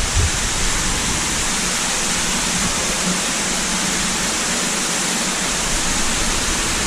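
Steady rushing of water falling and running through a cave passage.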